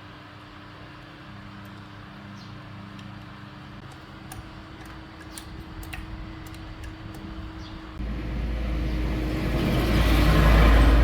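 A motor hums steadily. About eight seconds in, a much louder rushing noise with a deep rumble starts and swells toward the end.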